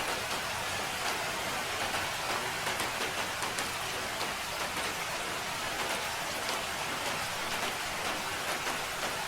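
Steady rain falling, a dense even hiss with many small drop taps scattered through it.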